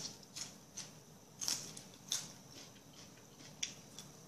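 Close-up eating sounds: a string of short, sharp wet clicks from chewing and mouth movements, about seven in four seconds.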